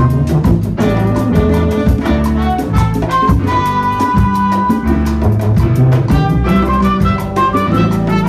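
Latin big band playing live: a brass and saxophone section holding and moving through chords over congas, timbales and drum kit in a steady salsa-style groove.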